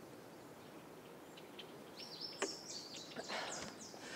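Faint garden ambience with a small bird chirping in quick, short, falling notes through the second half, plus a brief click and a soft rustle.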